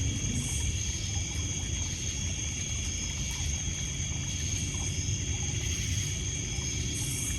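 Steady night chorus of crickets and other insects, several high trills held without a break, over a low wash of water lapping on a pebble shore, with a few faint crackles from the fire.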